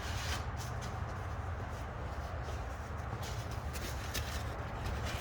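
Scattered light clicks and rustles of metal engine parts and a bolt being handled at the cam gear, over a steady low hum.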